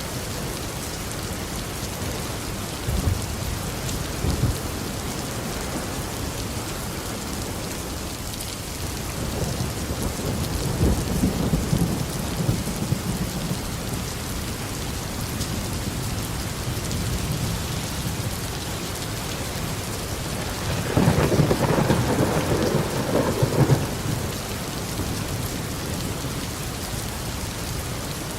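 Steady tropical rain with rolling thunder: a short low rumble early on, a longer one about ten seconds in, and the loudest peal about two-thirds of the way through, lasting a few seconds.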